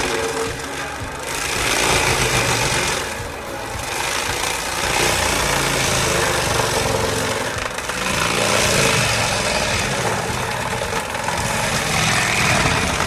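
Heavy machinery running hard, a dense mechanical noise that swells and eases every few seconds.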